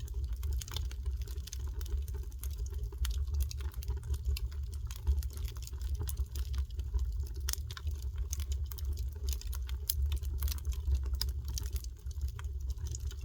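Wood fire burning, with a steady run of irregular crackles and small pops over a low rumble.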